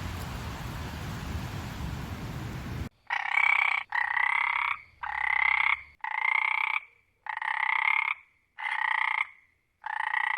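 A steady hiss for about three seconds cuts off. Then an animal gives seven evenly spaced calls, each just under a second long and pitched in the middle range.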